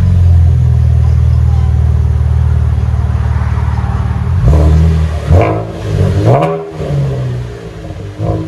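2012 Chevrolet Camaro 3.6L V6 through Flowmaster Super 10 race mufflers with the factory resonators and H-pipe, idling with a deep steady note. About halfway through it is blipped three times in quick succession, each rev rising and dropping back, and a fourth begins at the end.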